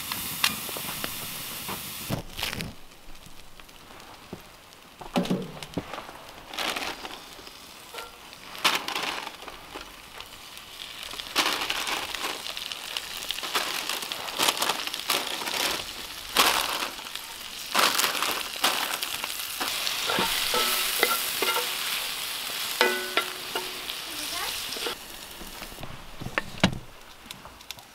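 Ruffed grouse and black trumpet mushrooms sizzling in a hot cast-iron skillet, the hiss swelling and fading, with frequent short scrapes and knocks of a utensil in the pan.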